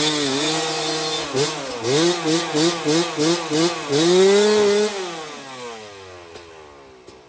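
Dirt bike engine being ridden, revved up and down quickly about twice a second, then held in one longer rev before fading away as the bike moves off.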